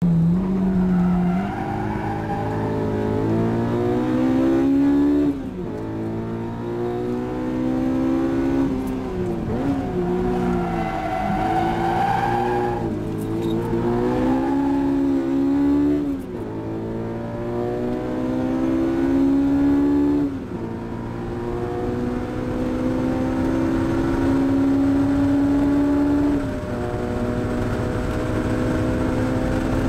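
Honda S2000 AP1's 2.0-litre F20C inline-four with Toda high-lift cams, heard from inside the cabin under hard acceleration. The engine note climbs in pitch again and again and falls sharply at each upshift, with a run of quick dips and climbs near the middle.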